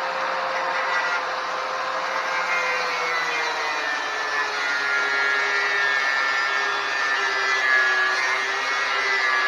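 Angle grinder cutting into a 1980 Suzuki RM50's metal motorcycle frame, running steadily with a high whine. About three to four seconds in, its motor note drops a little as the disc takes load.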